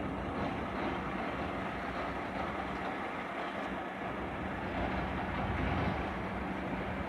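A train running at a station: a steady rumble with a low steady hum, swelling slightly about five seconds in.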